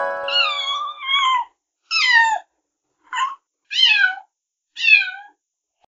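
A cat meowing five times in a row, each meow bending downward in pitch, the first the longest. The last held note of a keyboard tune fades out under the first meow.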